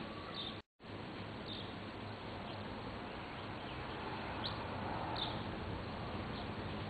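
Outdoor background noise with a few short, high bird chirps scattered through it. The sound cuts out completely for a moment near the start.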